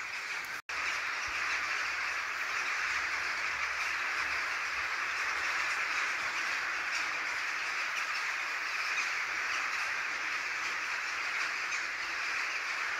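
A large number of birds calling at once overhead, making a dense, unbroken din; the sound cuts out for an instant just under a second in.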